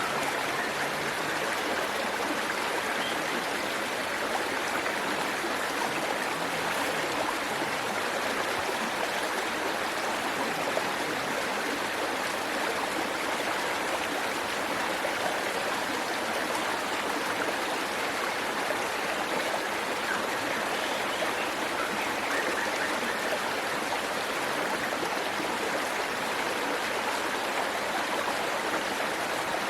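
Waterfall splashing and rushing water: a steady, even roar of falling water with no change throughout.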